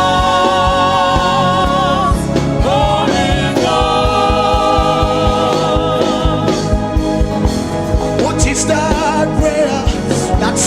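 Gospel worship music: singing in long held, wavering notes over a steady low drum beat.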